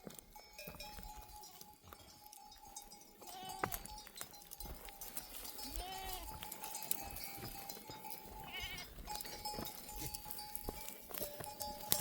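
A flock of sheep with bells on: the bells clink and ring steadily as the animals move and graze, and single sheep bleat about three and a half and six seconds in.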